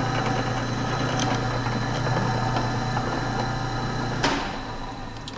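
Electric drill motor running steadily with a low hum after drilling through sheet metal, switched off with a click about four seconds in and then winding down.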